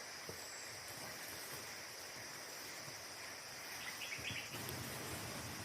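Steady, high-pitched drone of a forest insect chorus, with a few short chirps about four seconds in.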